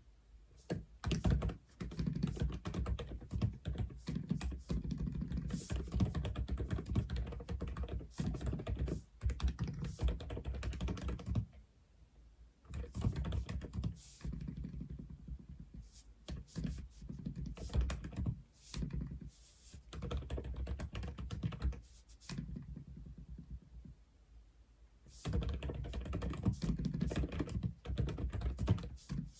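Typing on an Aula F87 (독거미 F87) mechanical keyboard: runs of rapid keystrokes broken by short pauses, with one longer pause of about three seconds near the end.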